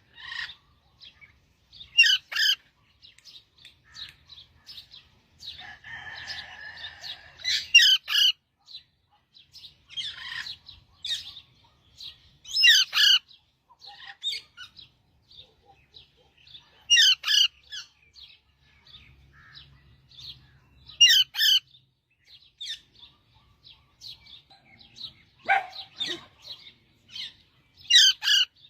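Parrot calling: a short, loud, high-pitched call repeated every few seconds, much the same each time, with softer chirps in between.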